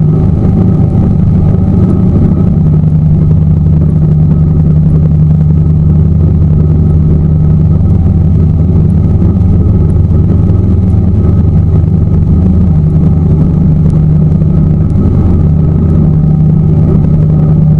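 Tour boat's engine running steadily at constant speed, a loud, even low drone.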